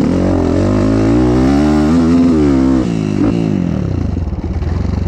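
Dirt bike engine revving up under throttle for about two seconds, holding, then easing off about three seconds in and dropping to low, uneven running.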